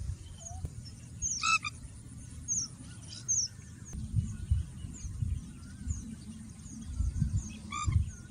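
Birds calling: a loud nasal call about a second in and again near the end, over many short, high chirps from other birds. A low rumble runs underneath, like wind on the microphone.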